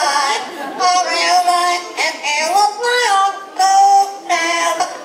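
Yellow-naped Amazon parrot singing a song it has learned by mimicry, in a human-like voice. It sings phrases of held, sliding notes with short breaks between them.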